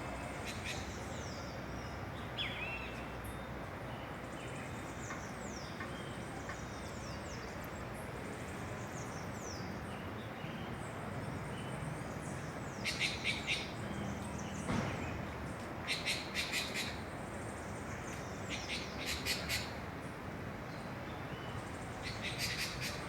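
Several birds singing and calling over a steady background hiss. Short, high, falling whistles sound throughout, and from about halfway on come repeated groups of three or four quick harsh notes, roughly every three seconds.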